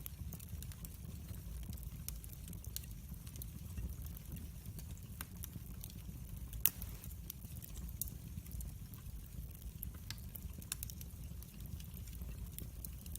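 Wood fire crackling in a fireplace: irregular sharp pops and snaps over a low steady rumble, with one louder pop about two-thirds of the way through.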